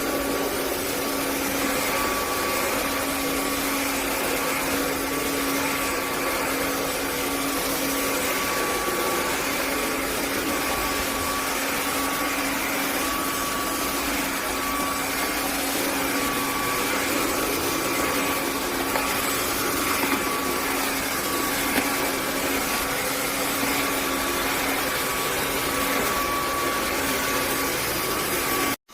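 X9 cordless wet-and-dry vacuum mop running steadily, its motor a constant whirring hum with a faint higher whine over a rush of air. It cuts off abruptly near the end.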